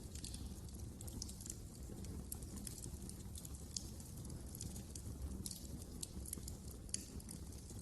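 Wood fire burning in a fireplace: a steady low rumble of the flames with frequent small crackles and pops, a few sharper snaps among them.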